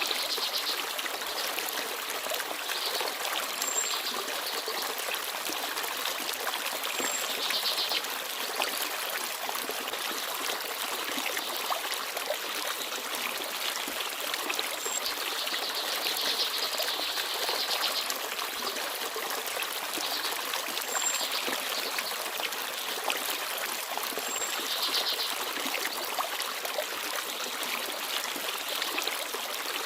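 Small forest stream babbling and trickling steadily over stones, with a handful of brief, very high bird chirps scattered through it.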